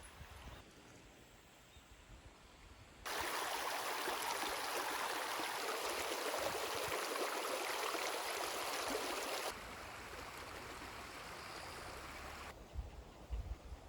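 Mountain stream water rushing over rocks: a steady, even wash. It is much louder for about six seconds in the middle, and its level jumps abruptly up or down several times.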